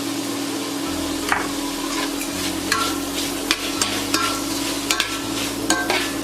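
Chicken, onions and spinach sizzling as they fry in a pan while a spoon stirs them, scraping and clicking against the pan. The clicks start about a second in and come more often toward the end.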